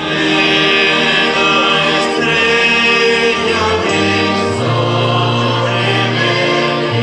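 Choral singing: several voices holding sustained, blended notes, with no break.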